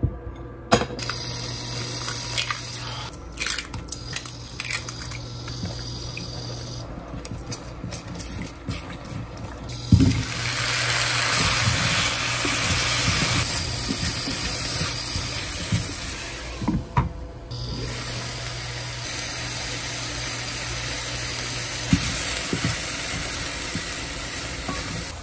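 Scattered clicks and knocks, then a kitchen tap running steadily into a sink from about ten seconds in, with a short break near the middle of the run.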